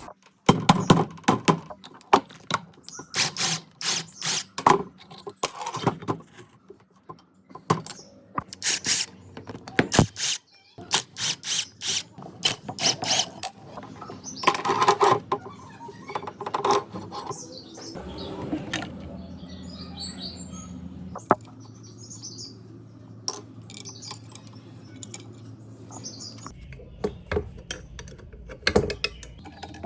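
Hand tools clinking, knocking and scraping on the metal parts of an old generator: dense rapid clicks and knocks for the first half, then only scattered clicks over a steady low hum.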